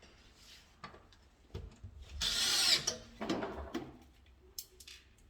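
A small power drill-driver runs once, briefly, a little over two seconds in. Around it come scattered clicks and knocks of tools and parts being handled.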